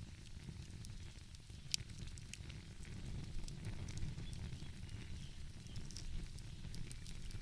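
Wood fire crackling, with scattered small pops and one sharper pop a little under two seconds in, over a low steady rumble.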